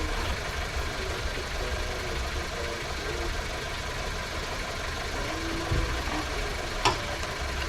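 A steady low mechanical running sound, like an engine or motor, with a fast even patter through it. A couple of sharp knocks come near the end.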